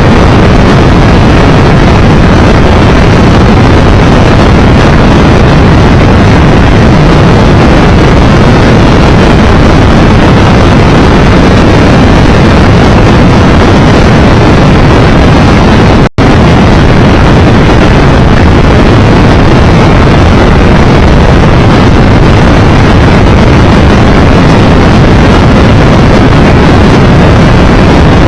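Loud, steady wind rush over the microphone of a Triumph 1200 Tiger Explorer motorcycle riding at speed, with engine and road noise underneath. The sound cuts out for an instant a little past halfway.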